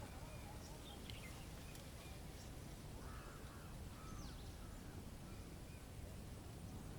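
Faint bird calls: a few short high chirps, and two arched calls about three and four seconds in, over a steady low hiss.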